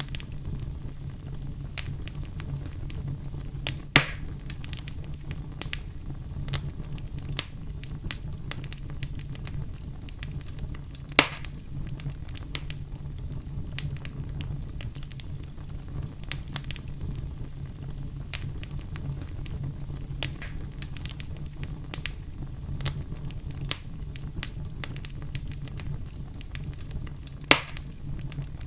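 Fire crackling in a fireplace: a steady low rumble under frequent small crackles, with three louder pops spread through.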